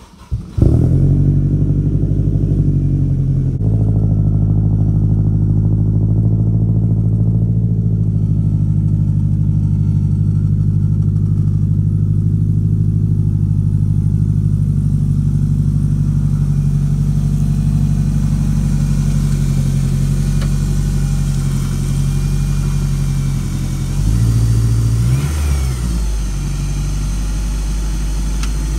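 Turbocharged Acura RSX four-cylinder engine starting about half a second in. It runs at a raised idle for a few seconds, then settles into a steady idle. Near the end there is a brief rise in revs as it is given throttle.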